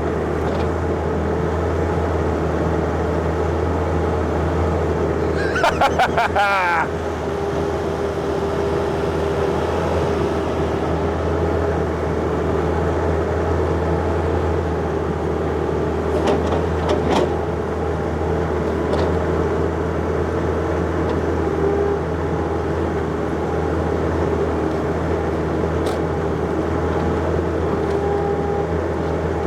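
John Deere 50ZTS mini excavator's diesel engine running steadily with a steady whine while it digs at stumps. A brief loud screech with wavering pitch comes about six seconds in.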